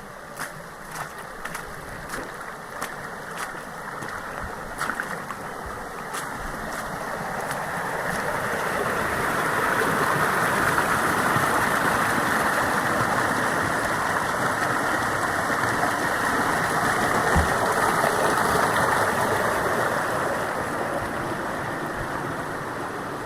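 Rushing water that swells to a strong, steady rush about a third of the way in and eases off near the end. Sharp clicks, likely footfalls, come through the first few seconds.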